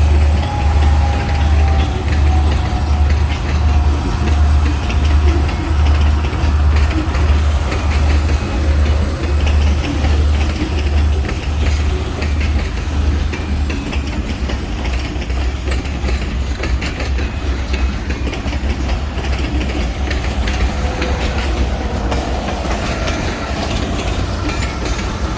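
Freight train rolling past close by, its wheels clacking over the rail joints in a steady rhythm that softens about halfway through.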